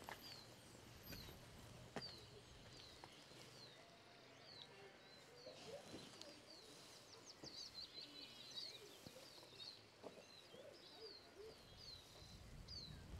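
Faint birdsong: one bird repeats a short, high, falling chirp every half second or so, with a brief burst of twittering about eight seconds in. A single sharp click about two seconds in.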